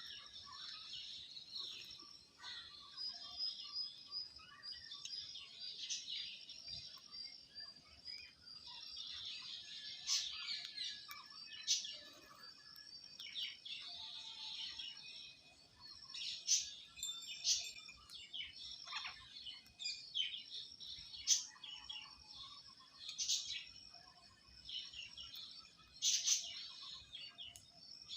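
Many birds chirping and chattering together in a continuous, overlapping stream of short high calls, with a few louder sharp calls standing out now and then.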